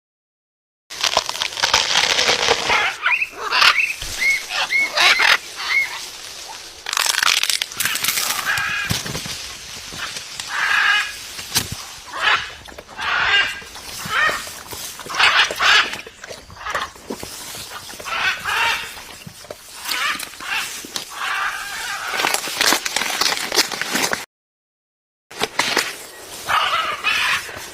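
Macaw parrot squawking and calling, many short harsh calls one after another. The sound cuts out completely twice, about a second each time.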